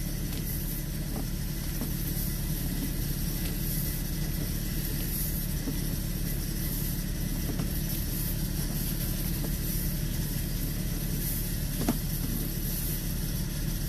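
A motor running steadily in a low, even drone, like an idling engine, with a single short click near the end.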